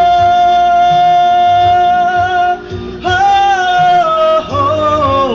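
Male singer holding a long high note on the last line of a ballad over a backing track, then a second held note and a falling phrase near the end.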